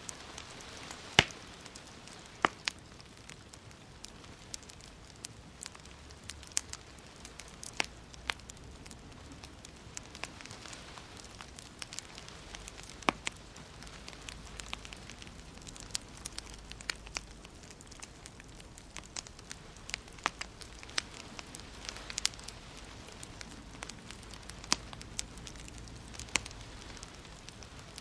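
Wood fire crackling in a fireplace, with irregularly spaced sharp pops, the loudest about a second in. Underneath is a steady soft hiss of rain.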